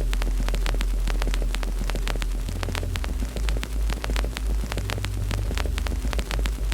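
Wood fire crackling with many irregular sharp pops over a steady low rumble, which throbs unevenly for a few seconds in the middle.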